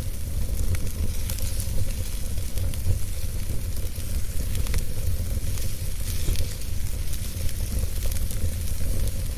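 Wood fire burning in a fireplace: a steady low rumble and hiss, with scattered small crackles and pops.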